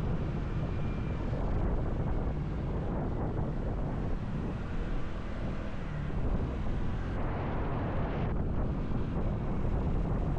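Steady rush of riding wind on the microphone of a moving motorcycle, with the motorcycle running underneath.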